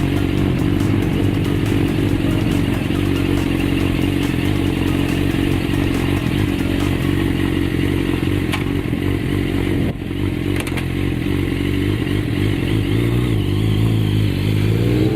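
Kawasaki motorcycle engine running steadily, its pitch shifting down and up near the end.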